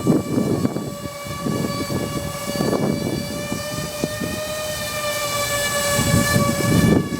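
Walkera Avatar twin-rotor RC aircraft running on its electric motors with a steady high whine that wavers slightly in pitch, while gusts of strong wind buffet the microphone.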